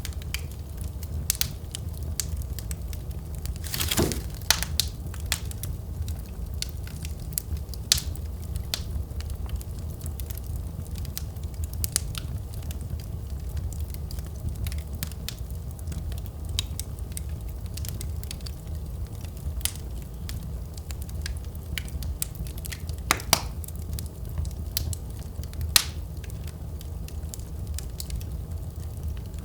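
Wood fire burning in a fireplace: a steady low sound of the flames with frequent small crackles and a few louder pops, the strongest about four seconds in and a couple more near the end.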